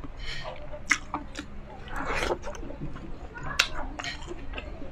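Close-miked chewing of crispy pork, with wet mouth sounds and two sharp crunches, about a second in and again at about three and a half seconds.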